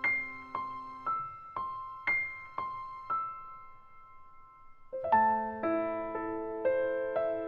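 Background piano music: soft, evenly spaced notes about twice a second that fade to a brief lull, then a fuller passage of chords starts about five seconds in.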